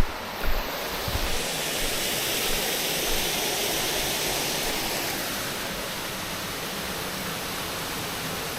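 Mountain stream rushing steadily, a dense hiss that swells for a few seconds and then holds. A couple of low thumps near the start.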